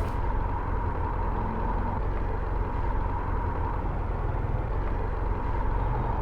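Motorcycle engine running steadily while riding, with wind and road noise on a helmet-mounted microphone.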